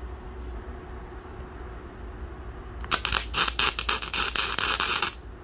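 Arc welder laying a short tack weld on leaf-spring steel: about two seconds of dense crackling sizzle starting near three seconds in, over a low steady hum.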